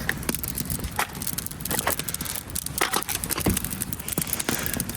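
Wood campfire burning, with irregular sharp crackles and snaps.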